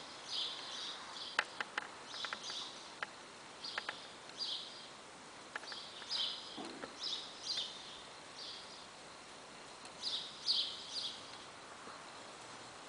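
Small birds chirping in short repeated bursts, in little clusters, with a few faint sharp clicks in the first half.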